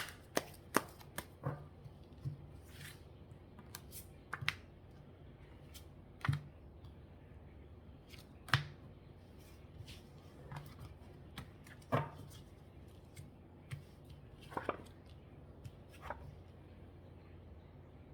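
Tarot cards being handled and drawn: a quick run of sharp card snaps in the first second or so, then single crisp snaps and taps every second or two as cards are pulled and laid down.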